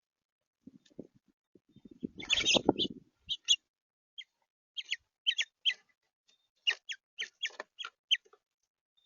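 Songbirds at a feeder giving a rapid series of short, sharp chip calls that slide down in pitch, after a brief rustling burst about two seconds in.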